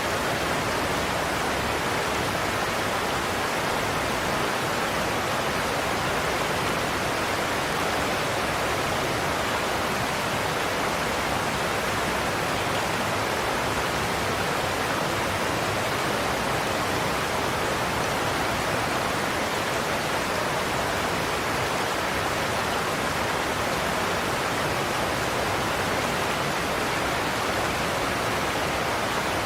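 Waterfall pouring over a cliff: a steady, unbroken rush of water.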